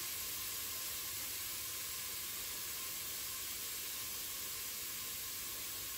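Minced garlic and ginger sizzling in hot oil in a Crockpot Express pressure cooker's pot on its sauté setting: a steady, even hiss.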